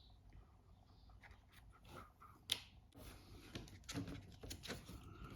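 Faint handling of a phone repair kit's packaging and parts: scattered light clicks and rustles, with one sharper click about halfway through.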